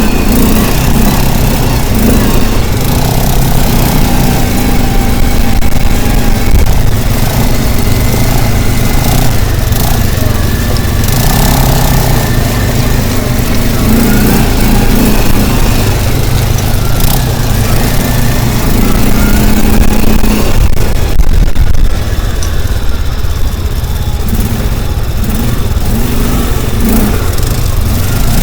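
A motor vehicle's engine running steadily and loud, close by.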